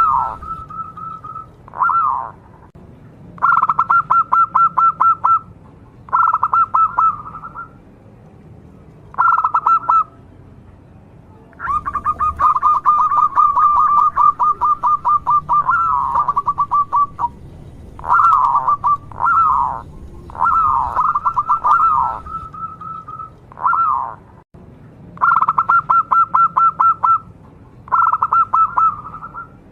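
Zebra dove (perkutut) cooing: phrase after phrase of rapid, stuttering coos held at a steady pitch, with short pauses between phrases.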